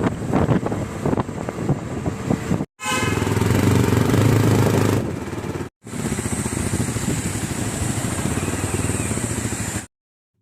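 Motorcycle on the move: engine running with road and wind noise, in three short stretches that cut off abruptly between them.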